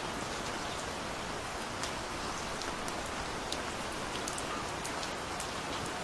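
Steady gentle rain falling, an even hiss with scattered drops ticking close by.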